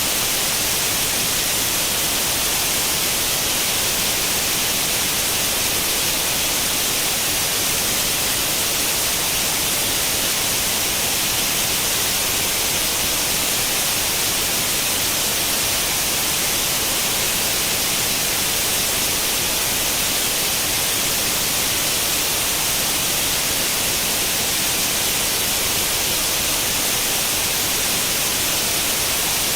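Steady white-noise hiss in the style of an untuned tube television's static, unchanging throughout and brightest in the high frequencies.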